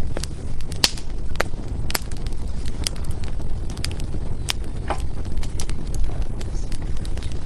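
Wood fire burning: a steady low rumble of flame with irregular sharp crackles and pops from the burning firewood.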